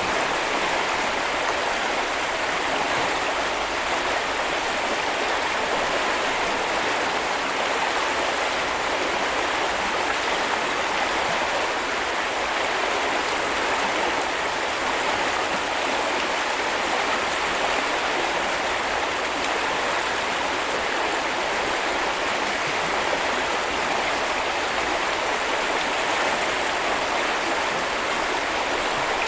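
Small river or brook flowing steadily over stones, an even rush of water with no change.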